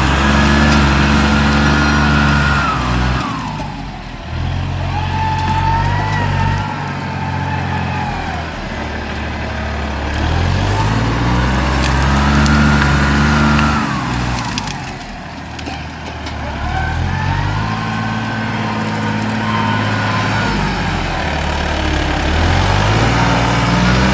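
Large farm tractor's diesel engine working hard under ploughing load, its note sagging twice as it lugs down and then climbing back as it recovers, with a whine rising and falling along with the engine speed.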